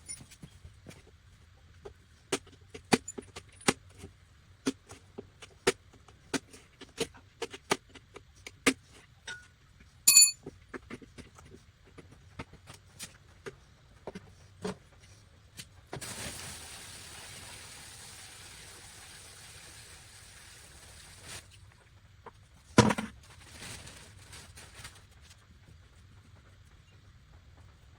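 Shop handling noises from setting up a parts soak: a run of sharp knocks and clicks with one ringing metal clink, then liquid pouring in a steady rush for about five seconds, and a single thump.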